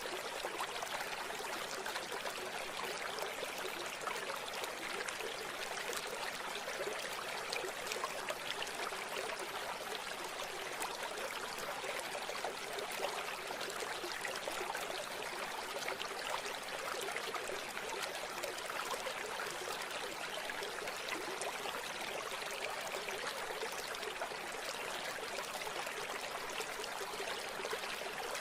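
A stream or small river flowing steadily over rocks, a continuous trickling rush of water with no break.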